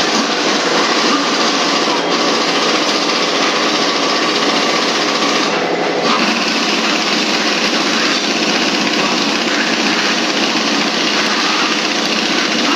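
A small engine running steadily and loudly, with no change in speed.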